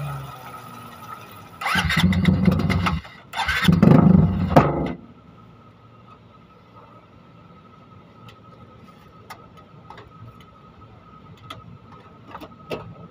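Bored-up Honda CRF150L single-cylinder four-stroke engine sputtering on a fuel tank that has run dry. It fires in two short loud bursts, about two and four seconds in, and each dies away. After that there is only a faint steady whine and scattered ticks.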